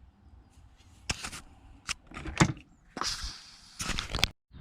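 Handling noise: a few sharp knocks and clunks, then stretches of scraping and rustling as objects are moved about. The sound cuts out completely for a moment near the end.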